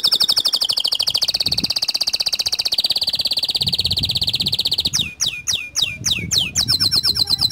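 White domestic canary singing: a long, very fast trill of rapidly repeated high notes, then a few separate downward-sweeping notes about five seconds in, and another fast trill near the end.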